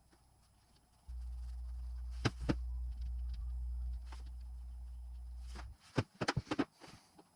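Tools and engine parts being handled on the bench: two sharp clicks over a low rumble, then a quick run of taps and clicks near the end.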